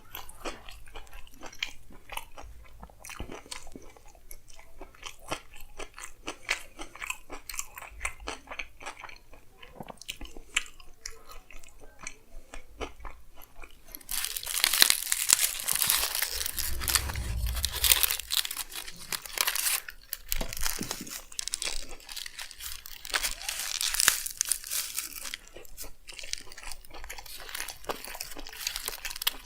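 Close-miked chewing and biting into a chicken frankie wrap, a wet, crunchy run of many small mouth sounds. About halfway through, a louder, denser crackling stretch of about ten seconds sets in before settling back to plain chewing.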